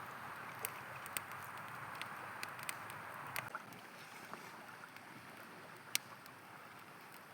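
Campfire crackling with scattered sharp pops over the steady rush of river water; the loudest pop comes about six seconds in. The water sound drops a little about three and a half seconds in.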